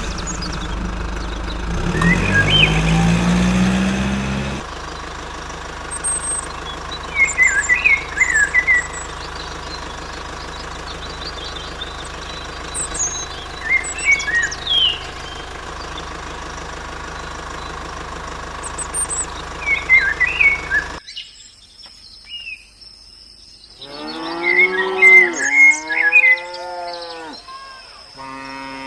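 An engine revs up briefly at the start. Then birds chirp in scattered bursts over a steady low hum, and a cow moos about three seconds before the end.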